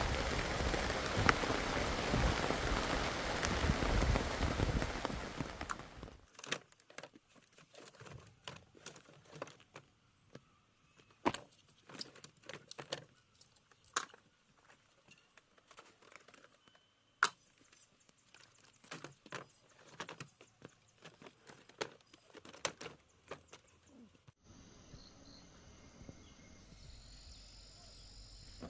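Steady heavy rain for the first six seconds. It then cuts off abruptly to quiet, broken by scattered sharp clicks and knocks.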